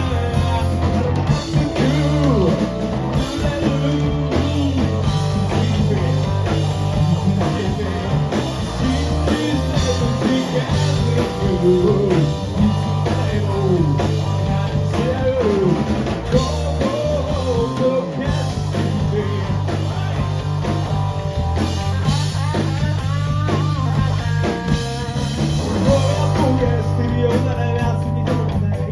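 Live rock band playing a song: distorted electric guitars, bass and drum kit, with a vocal or lead-guitar melody over them.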